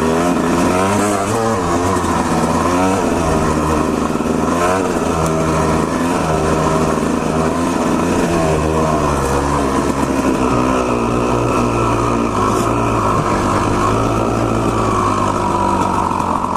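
Honda CR250R two-stroke dirt bike engine under way on a trail, its pitch rising and falling again and again as the throttle is opened and closed, then running more evenly in the second half.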